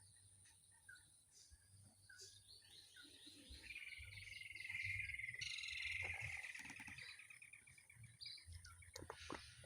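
Wild animal calls: a few short chirps, then a loud, rapid trill from about four seconds in that lasts some five seconds and falls slightly in pitch.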